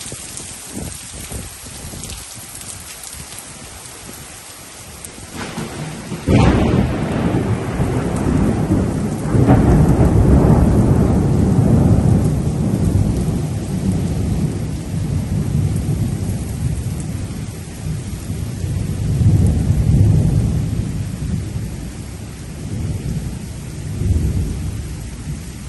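Heavy thunderstorm rain falling steadily. About six seconds in, a sudden sharp crack of thunder breaks into a long low rumble that swells and fades several times.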